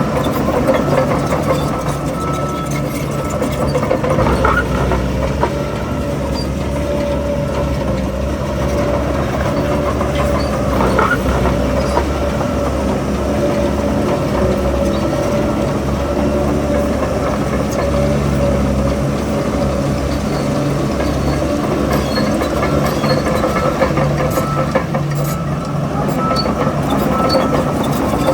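Heavy diesel engine of earthmoving machinery running steadily, its load rising and easing, with two brief rising squeals.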